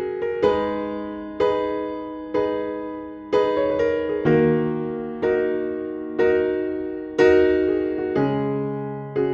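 Background music: slow piano-like keyboard chords struck about once a second, each fading away before the next.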